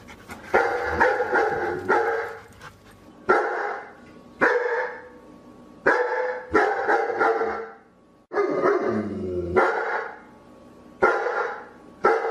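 A dog barking repeatedly, in about seven bursts with short pauses between them.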